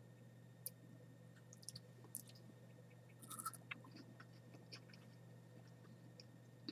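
Faint chewing of dehydrated sago worms (red palm weevil larvae), heard as scattered small clicks, with a short cluster of them about three and a half seconds in.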